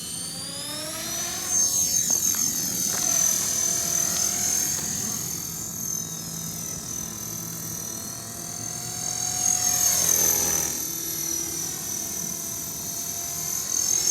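450-size radio-controlled helicopter in flight: a steady high-pitched motor and rotor whine whose pitch sweeps up and down as it manoeuvres. It grows louder about one and a half seconds in and again near ten seconds.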